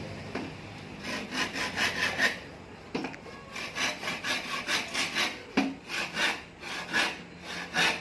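Hand saw cutting through wood in steady back-and-forth strokes, about two to three a second.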